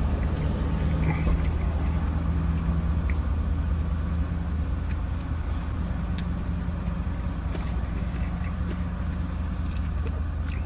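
A man biting into and chewing a Double Big Mac, soft chewing with a few small clicks, over a steady low hum inside a car cabin.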